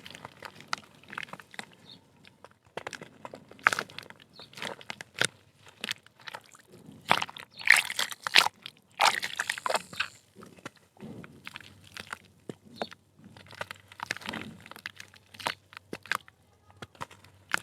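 Blocks of soft dirt being crumbled by hand, making irregular crunches and crackles, with a denser, louder spell of crunching about halfway through.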